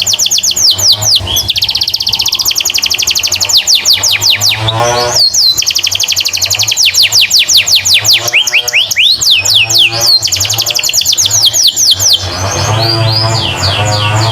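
Domestic canary singing fast trills: long runs of rapid, repeated high chirps, switching to a new phrase every second or two.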